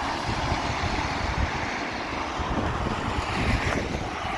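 Wind buffeting the microphone in gusts, over a steady stream of traffic passing on a wet road.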